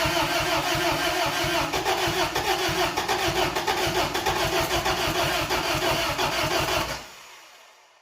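Starter motor cranking the carbureted engine of a 1992 Isuzu pickup, with a steady whine and even, quick compression pulses, for about seven seconds without the engine catching, then cutting off.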